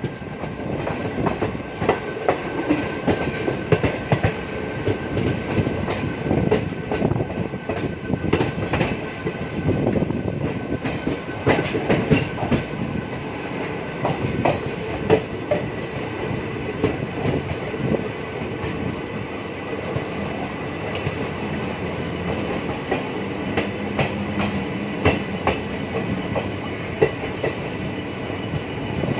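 Train in motion: steel wheels clattering over rail joints and points, many irregular clicks over a steady rolling rumble, with a faint steady high ring.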